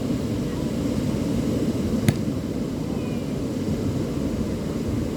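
Steady low rumble of beach ambience, with a single sharp click about two seconds in.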